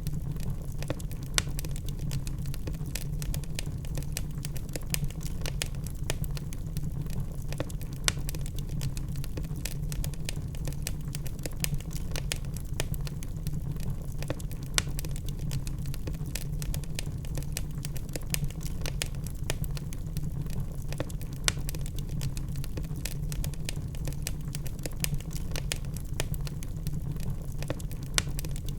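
Wood fire in a fireplace burning steadily: a low rumble with irregular crackles and a few sharper pops from the burning logs.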